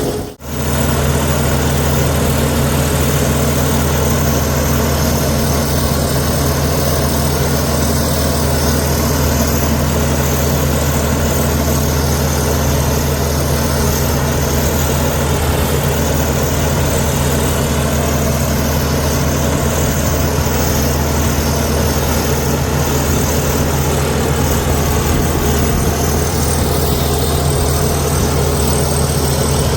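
Komatsu D61EX bulldozer's diesel engine running steadily, with a deep, even drone. The sound drops out briefly about half a second in, then resumes unchanged.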